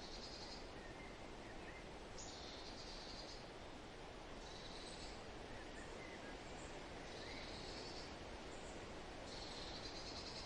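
A songbird repeating a high, buzzy trill about a second long every two seconds or so, with a few fainter short chirps in between, over a steady rushing hiss of wind.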